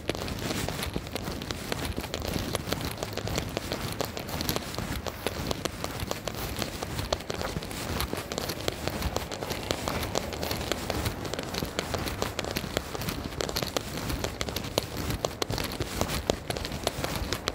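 Steady rain falling, a dense even hiss dotted with many small ticks of drops.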